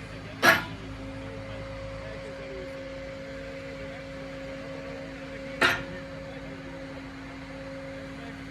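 Truck-mounted HIAB loader crane's hydraulics running with a steady hum. Two sharp knocks land about half a second and five and a half seconds in.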